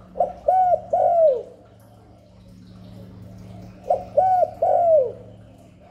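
Spotted dove cooing: two phrases about three and a half seconds apart, each a short note followed by two longer coos that fall away at the end.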